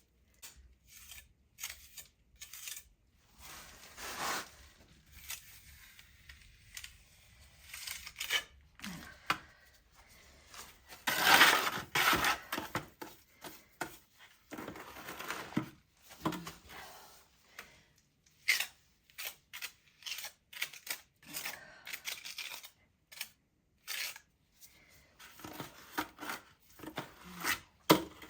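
Irregular scraping and clinking handling noises in short strokes, with a longer, louder scrape about eleven seconds in.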